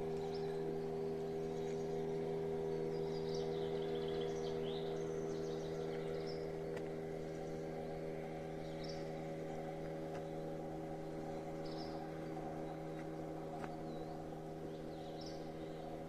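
Small birds chirping now and then over a steady low hum made of several even tones.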